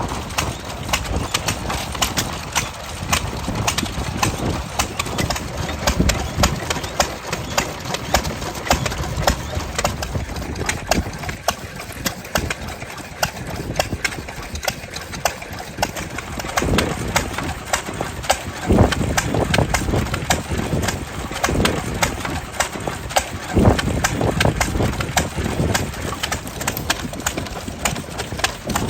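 Vintage stationary engines running, a busy clatter of rapid ticks and knocks over a low steady rumble, with a few heavier thuds in the second half.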